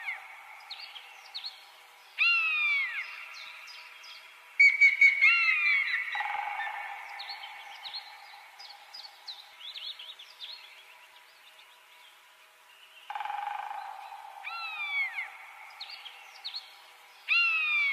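Birds calling: loud, downward-sliding whistled calls repeated every few seconds, with many short high chirps between them, over a steady high hum that cuts in and out. No crash or impact sounds are heard.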